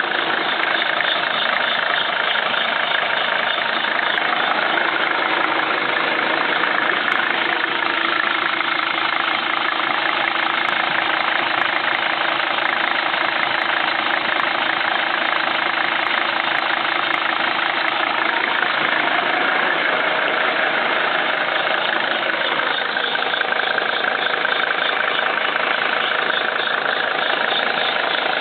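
1981 Mercedes-Benz 300D's five-cylinder diesel engine idling steadily with its diesel clatter, heard up close in the engine bay with the air-conditioning compressor clutch engaged and the compressor running. The tone shifts slightly about two-thirds of the way in.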